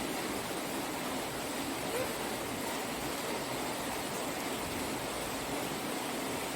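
Heavy rain falling, a steady hiss that does not let up.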